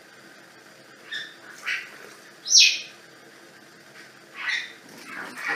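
Small bird chirping: a few short, high, downward-sliding calls spaced irregularly, the loudest about two and a half seconds in.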